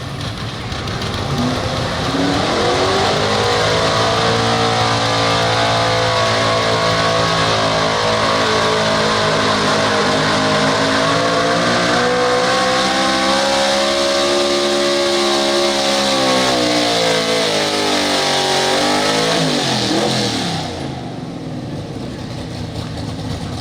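Pulling truck's engine at high revs through a sled pull. Its pitch climbs sharply in the first couple of seconds, stays high with a slow swell and sag, then drops away and stops about twenty seconds in as the pull ends.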